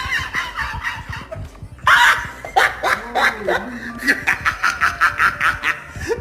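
A person laughing in runs of short, quick snickering bursts, the longest run near the end.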